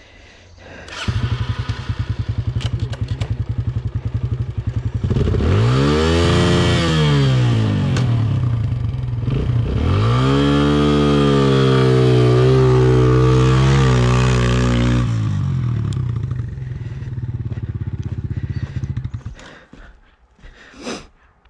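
Dirt bike engine that comes in abruptly about a second in, running at a steady low rev, then revving up twice in rising-and-falling surges, the second one held high for a few seconds. It drops back and stops near the end.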